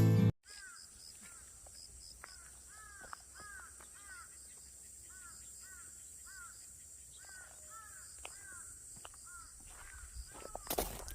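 Birds calling outdoors: many short, arched calls repeated irregularly over a faint steady high hiss, with a louder noise near the end.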